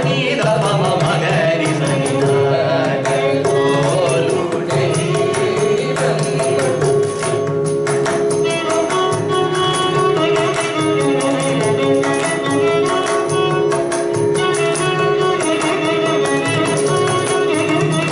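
Carnatic music: a voice singing over sustained melodic lines, with violin accompaniment and rapid mridangam drum strokes throughout.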